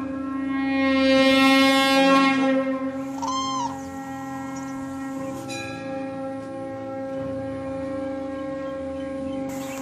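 A sustained, droning wind-instrument tone rich in overtones that swells louder about a second in and then holds steady. A short arching call with overtones sounds once a little past the third second.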